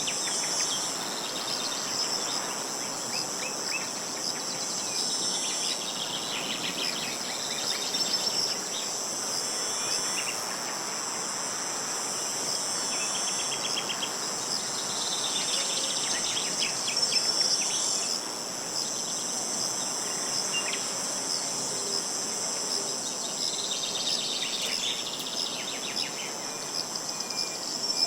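Insects chirring steadily and high-pitched, while a bird sings short phrases several times, over a soft hiss of wind.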